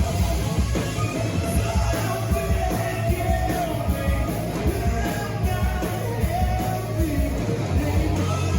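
A rock band playing loud, driving music, with a singer yelling and singing over it.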